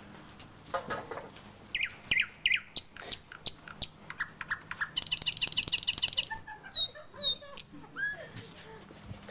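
Bird chirps and whistled calls: a run of short falling chirps, then a fast trill about five seconds in, then curling whistles and lighter chirps.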